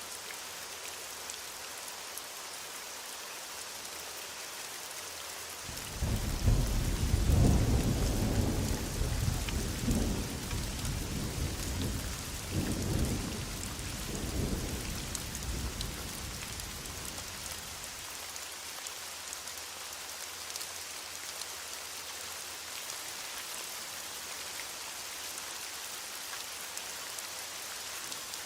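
Heavy rain falling steadily, with a roll of thunder about a fifth of the way in: a sudden deep rumble that swells several times and fades out over about ten seconds, leaving only the rain.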